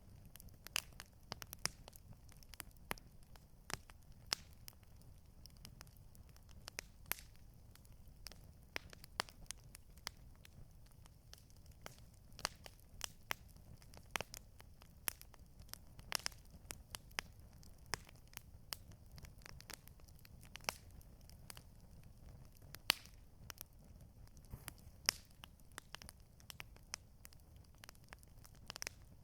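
Campfire crackling: burning wood giving irregular sharp pops and snaps, a few each second, over a faint steady low rumble.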